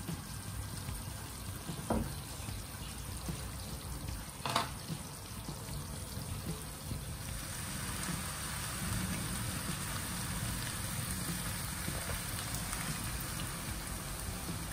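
Squid and prawns sizzling as they fry in a wok, the sizzle growing louder about halfway through. There are two sharp knocks in the first few seconds.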